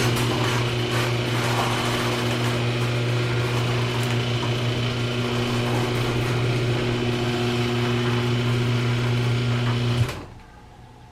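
A Liftmaster garage door opener's motor running steadily with a low hum, then cutting off sharply about ten seconds in, as the door reaches the end of its travel.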